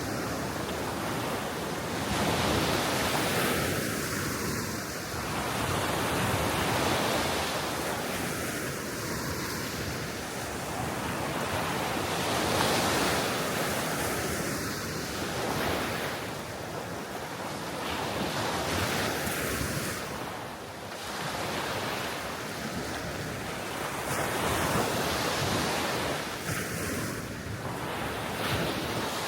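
Small Baltic Sea waves breaking and washing on the shore, swelling and easing every four to five seconds, with wind blowing.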